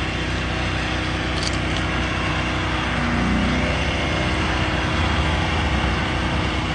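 An engine idling steadily, a constant low hum under an even rushing noise.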